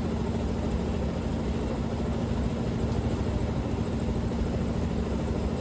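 Washing machine in a high-speed spin cycle: a steady, even hum with one held tone, the drum spinning so fast it pushes air out like a fan.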